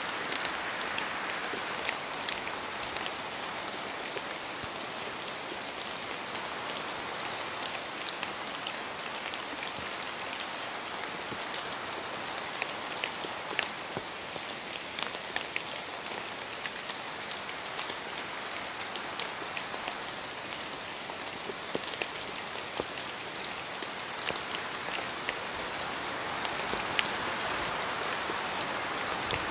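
Steady rain falling, an even hiss dotted with many sharp drop hits.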